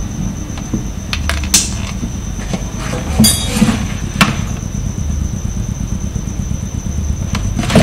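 Handling noise from cables and connectors being plugged back into the speaker's electronics: a few separate sharp clicks and knocks over a steady low hum and a thin, high steady tone.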